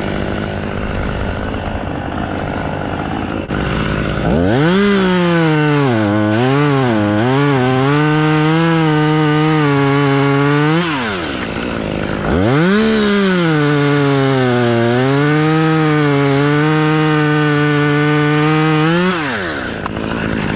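Two-stroke chainsaw revving up and cutting wood twice, each cut lasting about six or seven seconds, its pitch dipping and wavering as the chain bites, then dropping back when the throttle is released. A steady engine hum runs underneath between the cuts.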